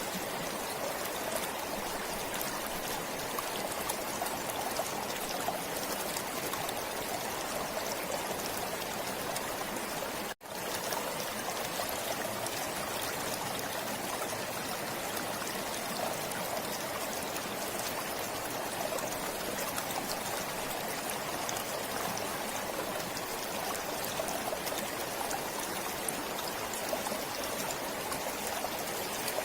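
Stream water flowing and trickling steadily, with one momentary break in the sound about ten seconds in.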